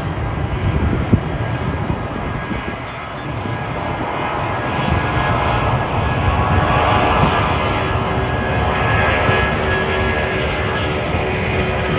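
Airliner engines running as a plane passes: a steady rumble with whining tones that grows louder about four seconds in.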